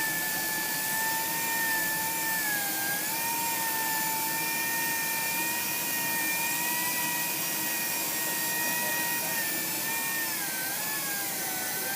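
Electric car buffer buffing a cultured marble countertop, its motor giving a steady high whine. The pitch dips briefly as it is pressed harder, about three seconds in and again near the end.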